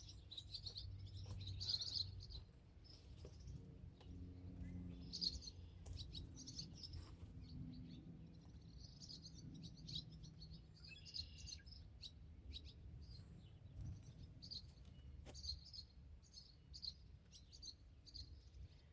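Faint bird chirping: short, high chirps scattered through the whole stretch.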